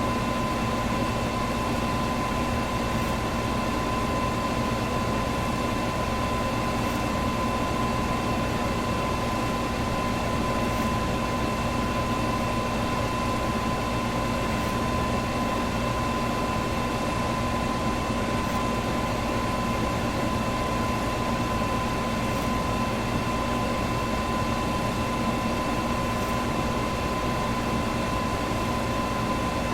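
Electric box fan running steadily: an even whooshing hum with a steady high tone in it, and a faint tick about every four seconds.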